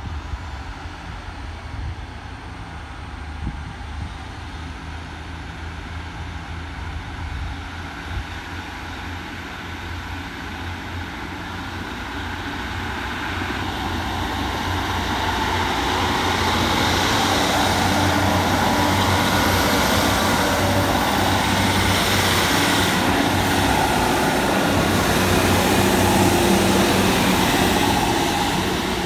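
A train approaching and running through the station, its rumble growing louder over about fifteen seconds and staying loud through the second half before easing near the end. A faint high whine rises slowly in pitch throughout.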